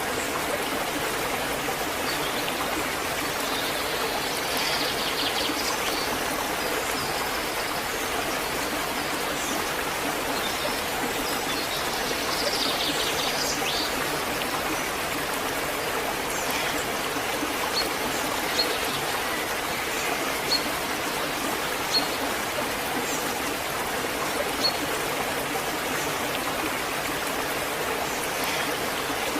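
Waterfall rushing in a steady, even wash of water noise, with a few brief sharp high ticks in the second half.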